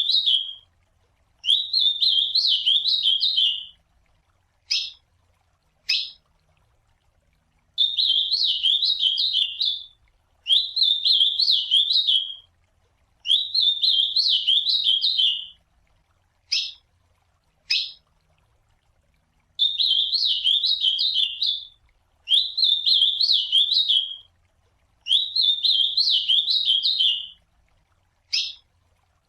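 Ultramarine grosbeak (azulão) singing: high warbled song phrases of about two seconds each, mostly in threes, with one or two short sharp call notes in the pauses between groups.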